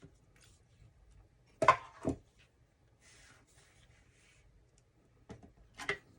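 Cardstock and craft tools handled on a work table: two sharp taps or clacks about two seconds in, a soft rustle of paper sliding, then two more clacks near the end.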